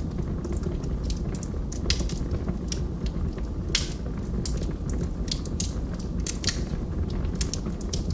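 Wood logs burning in a fireplace: a low steady rumble of flame with irregular sharp crackles and pops, several a second.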